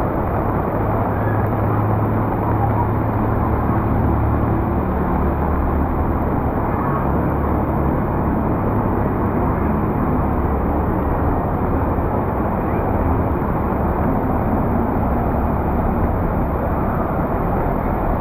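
Vehicle engines running in a flooded street in heavy rain: a steady low engine hum under a continuous wash of noise.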